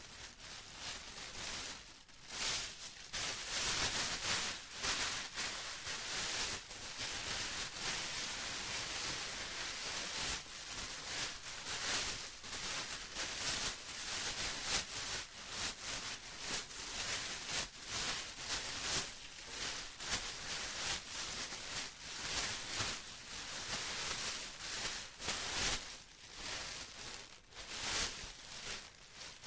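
Plastic rustling and crinkling without a break, an irregular stream of crisp crackles that rise and fall in loudness.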